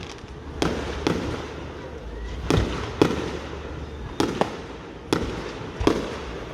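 Fireworks bursting: a string of sharp bangs at irregular spacing, about eight in all, each followed by a short rumbling echo.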